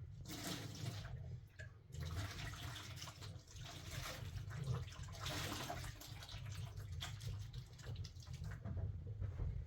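Water running and splashing, a steady noisy rush.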